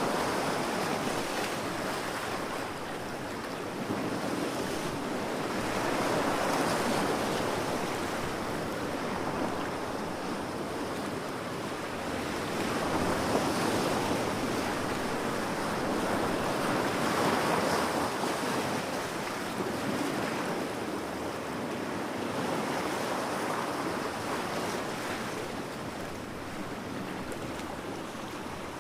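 Ocean waves breaking on a beach: steady surf whose rush swells and ebbs every several seconds as each wave comes in.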